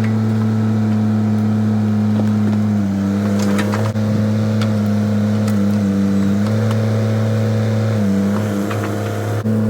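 Bobcat E32 mini excavator's diesel engine running steadily at working speed. Its pitch dips briefly several times as the hydraulics take load, with a few sharp knocks from the digging.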